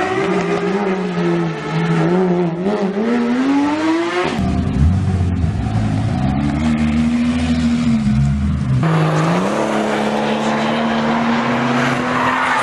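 Sports car engine revving and running at varying speed, with a pitch that wavers and climbs over the first few seconds. The sound changes abruptly twice, about four seconds in and about nine seconds in, and then runs more steadily.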